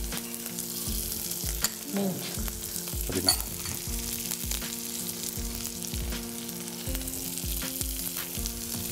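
Chopped leeks, celery, garlic, ginger and fresh herbs sizzling steadily as they sauté in oil in a pan, with a few sharp clicks of the utensil against the pan. Soft background music with a steady low beat plays underneath.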